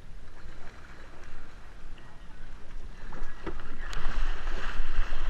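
Kayak paddles splashing and water churning, with low wind rumble on the microphone. A few sharp knocks come about three to four seconds in, and the splashing gets louder near the end.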